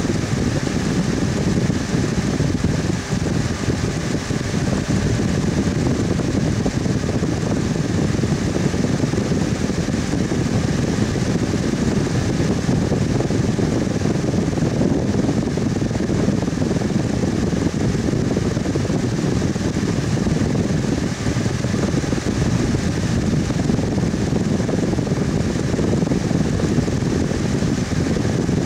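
Electric fan running steadily: a constant rushing hum with a faint steady whine above it.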